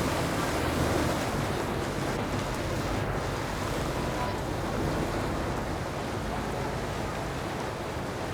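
Motorboat running past on the river, a low engine rumble under the rush of water, with wind buffeting the microphone.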